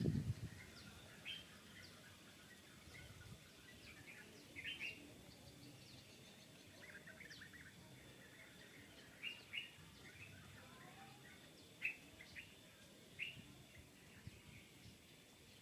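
Faint birds chirping: short, scattered high chirps over a quiet outdoor background, with a low noise dying away in the first half second.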